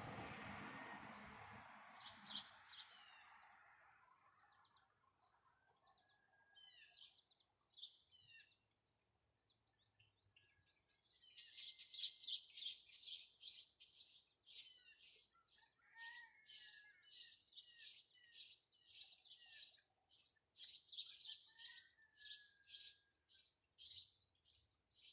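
Red-headed woodpeckers calling. A few scattered calls come first, then from about halfway a rapid, regular series of short high calls, about two a second, with lower calls now and then among them. A rush of noise fades out over the first few seconds.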